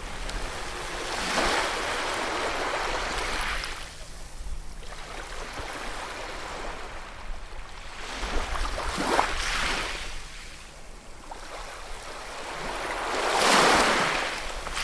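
Sea waves breaking and washing in: three swells of rushing surf, each rising and falling away, the loudest near the end.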